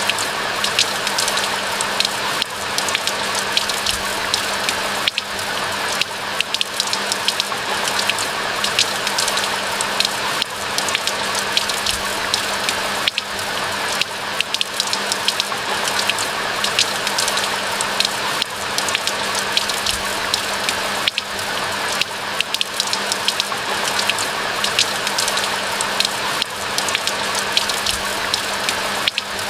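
Steady rain falling, a dense even hiss with many individual drops ticking sharply on top, unbroken throughout.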